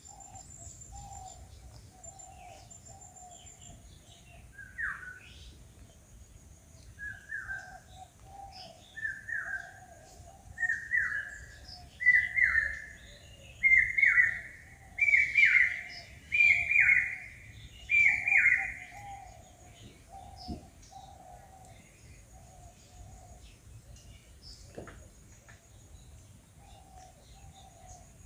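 A bird calling a series of about nine loud, downward-sliding notes about one and a half seconds apart, each a little higher and louder than the last, then falling silent. Fainter repeated bird notes sound lower down all the way through.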